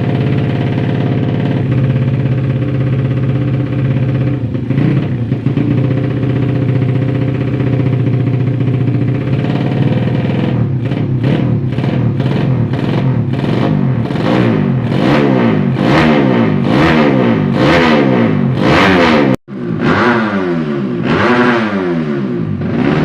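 Yamaha Jupiter Z drag-build motorcycle's four-stroke single-cylinder engine through an aftermarket exhaust (knalpot), running at a steady speed, then blipped repeatedly from about halfway, about once a second, the revs shooting up and falling back each time. A brief dropout near the end.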